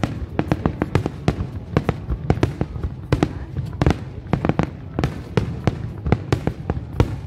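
Aerial fireworks shells bursting in rapid, irregular succession, several sharp bangs a second over a constant low rumble.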